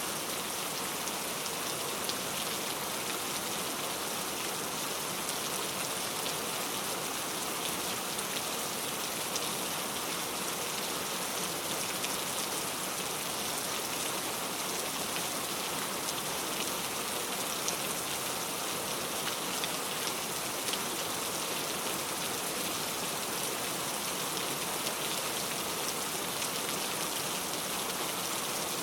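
Steady rain falling, a constant even patter with scattered individual drops ticking.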